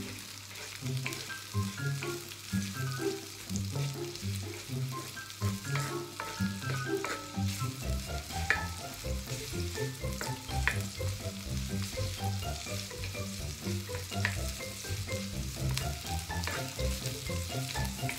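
Sliced onions sizzling in a hot wok, stirred with a wooden spatula that scrapes and knocks against the pan now and then. Background music with a steady beat plays underneath.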